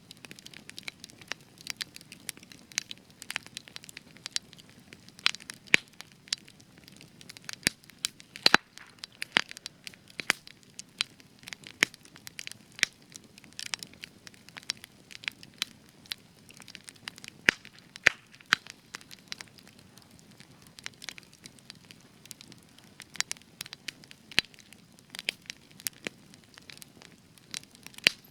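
Spruce-wood campfire crackling, with irregular sharp pops, some louder than the rest, over a faint low hiss of burning.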